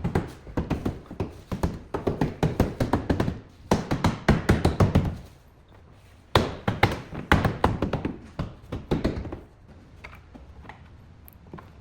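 Rapid light tapping or knocking, many strikes a second, in three bursts separated by short pauses, then only a few faint ticks near the end.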